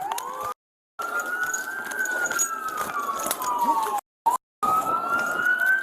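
Emergency vehicle siren in a slow wail, its pitch rising and falling about every four seconds. The sound drops out to silence twice, briefly.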